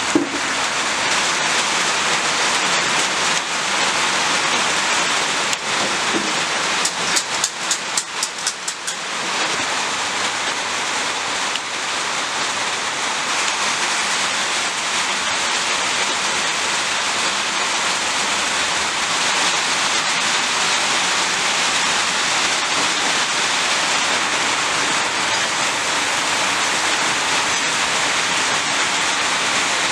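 Steady rain falling, an even hiss, with a short run of rapid crackling pulses about a third of the way in.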